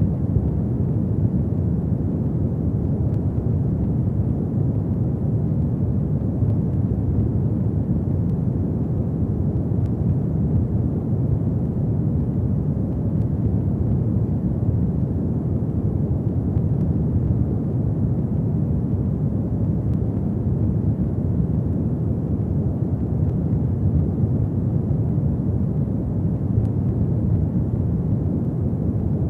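Fireplace fire burning with a steady low rumble and faint scattered crackles.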